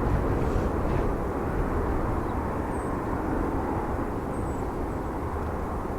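Jet airliner engines running during a takeoff, a steady roar that slowly fades a little, with a few faint high chirps over it.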